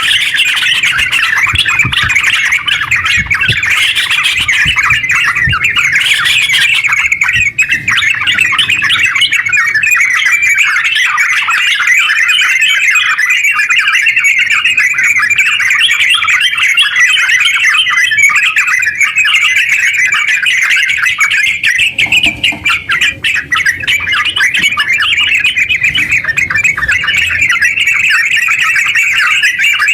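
Yellow-vented bulbul (terucuk) singing a long, rapid, unbroken chattering song, the continuous 'ngeropel' delivery used to lure wild bulbuls and to set caged ones singing.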